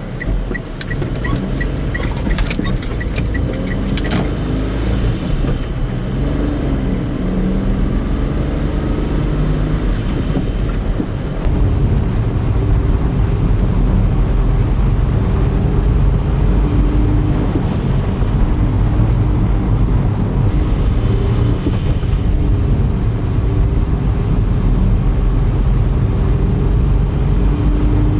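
Car engine running with road noise while driving. It gets louder about eleven seconds in. A run of sharp clicks comes in the first four seconds.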